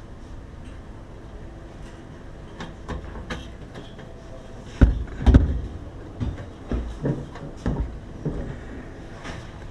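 A series of irregular knocks and clunks, loudest as two heavy thuds about five seconds in, with more around seven and eight seconds, over a steady low hum.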